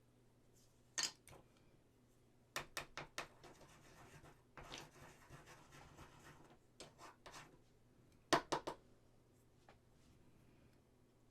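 Small hard clicks and taps of resin model parts and hobby tools being handled, with quick runs of three or four taps and a stretch of soft rubbing in the middle.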